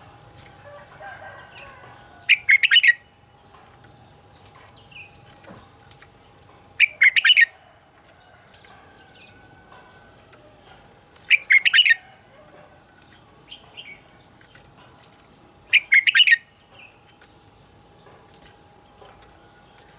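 Red-whiskered bulbul singing loud, short phrases, each under a second, four times at even intervals of about four and a half seconds, with fainter chirps between.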